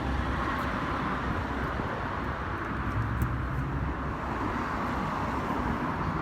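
Steady outdoor background noise of road traffic, with a low rumble and an even hiss and no single event standing out.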